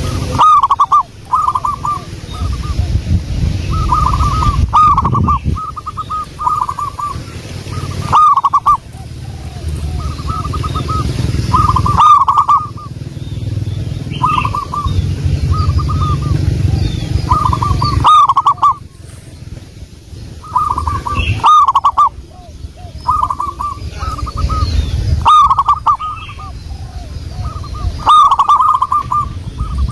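Zebra dove (perkutut) cooing: repeated phrases of quick, staccato notes about every two seconds, over a low rumble. Faint high chirps of small birds come in between the phrases.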